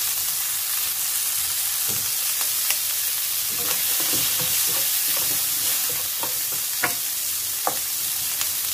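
Asparagus spears sizzling in melted butter and minced garlic in a frying pan, a steady hiss with scattered light clicks and knocks as wooden chopsticks turn the spears.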